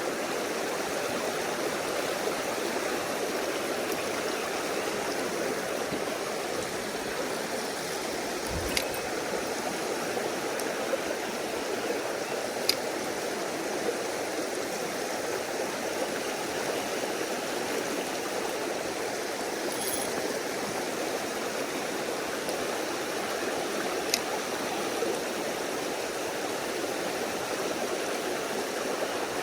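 Mountain stream rushing steadily over rocks, with a few short clicks and a dull knock now and then.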